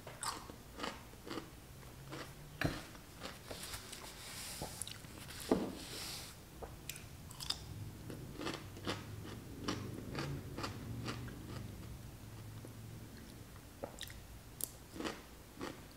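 A person biting and chewing crunchy pickle spears close to the microphone: a string of irregular wet crunches.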